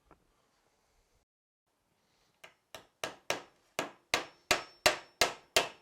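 A hammer driving a nail into the timber of a wooden beehive lift: about ten sharp strikes at roughly three a second, growing louder, starting a couple of seconds in.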